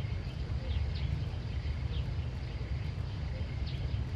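Outdoor ambience: a steady low rumble, with short high chirps from small animals, each gliding down in pitch, about once a second and unevenly spaced.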